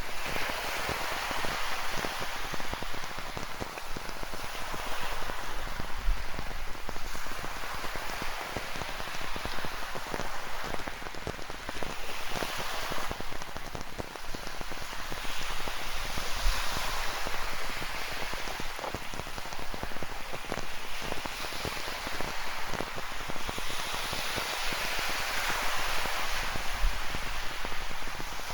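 Steady rain with a dense patter of drops, over ocean surf that swells and fades every several seconds.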